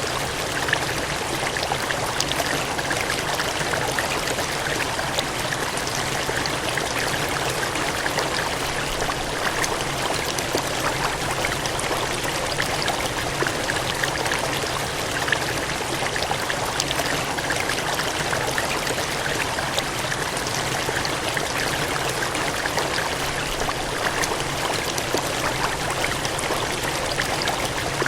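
Water gushing and cascading in a steady, even rush, with fine splashing.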